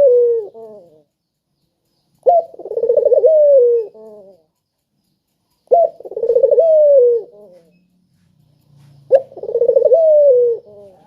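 A puter (ringed turtle dove) cooing over and over, about every three and a half seconds: three full coos and the tail of a fourth. Each coo opens with a short note, rolls quickly, then ends in a falling drawn-out tone.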